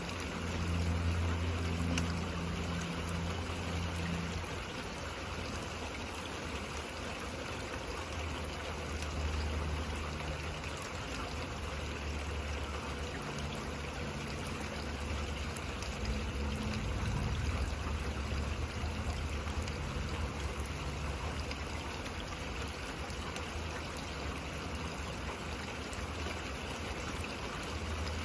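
Steady rain falling, with low rumbles of distant thunder rolling in the first few seconds and again through the middle.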